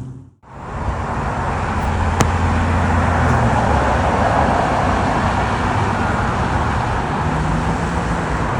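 Steady vehicle engine noise: a broad, even roar over a low hum. It follows a brief dropout right at the start, and there is a single sharp click about two seconds in.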